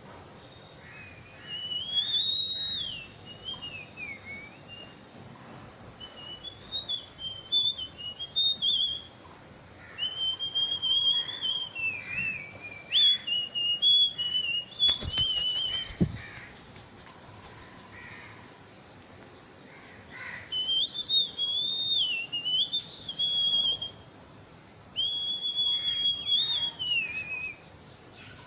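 High-pitched whistling in repeated short tunes, each a few seconds long, with rising and falling notes and quick warbles and pauses between them. About halfway through there is a brief clatter of clicks.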